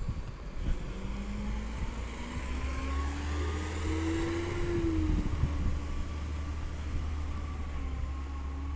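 Diesel engine of a Peterbilt 320 side-loader garbage truck pulling away, its pitch rising for several seconds, then dropping back and holding steady, over a deep hum.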